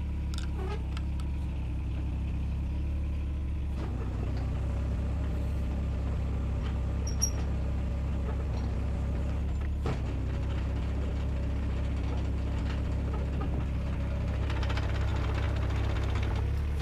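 Diesel engine of a Takeuchi mini excavator running steadily just after being started. The note shifts about four seconds in and again about ten seconds in.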